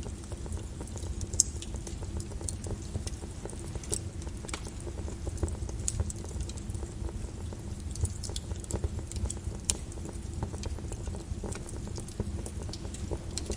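Volcanic lava crackling and popping at irregular intervals over a steady low rumble.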